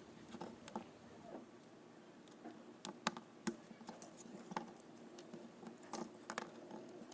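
Light, scattered clicks and taps of a watch strap being worked off a small watch case, about seven in all, with a faint steady hum underneath.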